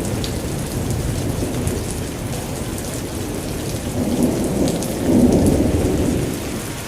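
Heavy cyclone rain with a continuous low storm rumble that swells about five seconds in, and faint patter of drops above it.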